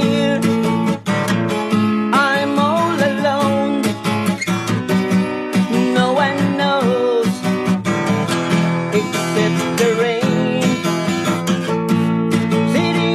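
Acoustic guitar strummed in steady chords, with a wavering melody line rising over them twice.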